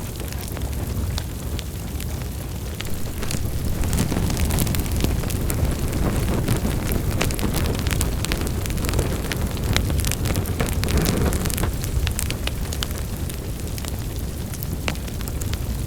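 Wood fire in a fireplace crackling: many small irregular pops and snaps over a steady low rumble of flames, busier in the middle.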